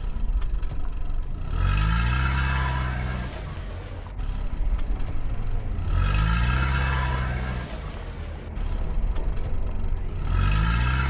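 Car engine revving three times, about four seconds apart, each rev climbing in pitch and then holding before dropping back.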